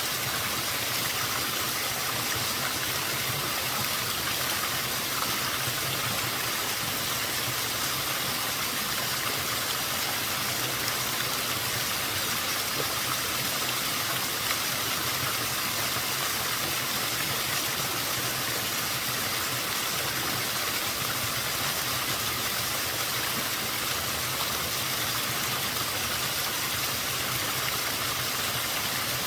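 Small waterfall running with a somewhat low flow: a steady rush of falling water.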